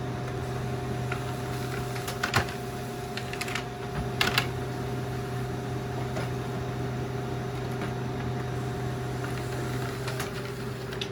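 Colour laser printer running as it prints the last pages, a steady mechanical hum and whine with a few clicks of paper handling. The whine winds down and stops near the end as the print job finishes.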